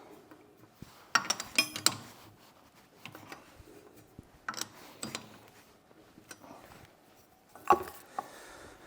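Scattered clanks and clicks of metal tools and parts being handled during lathe setup: a quick cluster about a second in, single knocks around the middle, and a louder clank near the end.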